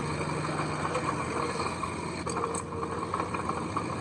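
Diesel engine of heavy earthmoving machinery running steadily, with a few light rattles about two seconds in.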